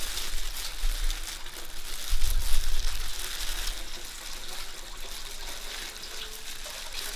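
Water running and splashing, with low rumbling bumps near the start and again about two seconds in.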